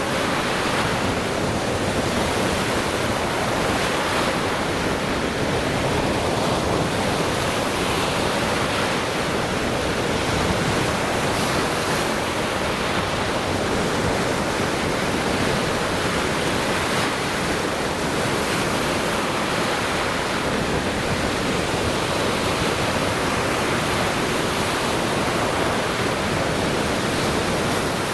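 Lake Michigan waves breaking on the shore, a steady continuous wash of surf with no distinct single breakers.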